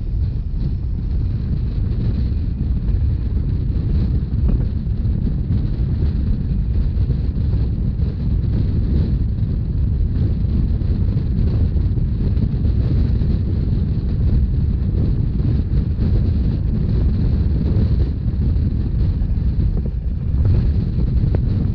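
Steady low rumble of a narrow-gauge Rhaetian Railway train running along the line, with wind buffeting the microphone.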